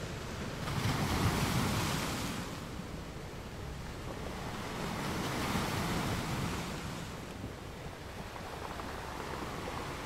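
Small sea waves washing in shallow water, with wind. The wash swells twice, about a second in and again around the middle.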